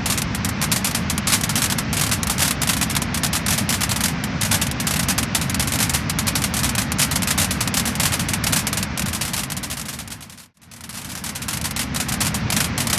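Wood fire crackling and popping with many rapid small pops over a steady hiss. About ten seconds in, the sound fades down to near silence for a moment, then fades back up.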